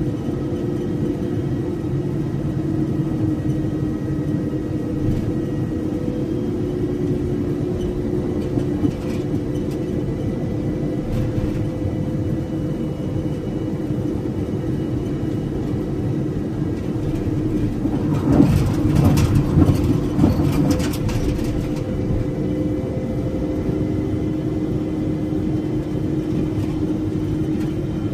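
Steady engine and road drone heard from inside a moving vehicle. About eighteen seconds in there is a louder, rougher stretch of rattling and knocks lasting a few seconds.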